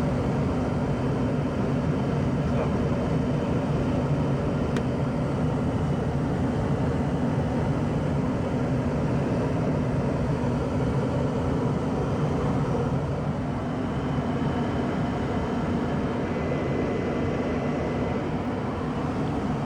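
A 1994 Tempstar SP80 gas furnace running steadily, its blower fan pushing air with a constant rushing hum and a faint high-pitched whoosh of air escaping through a small gap somewhere in the cabinet.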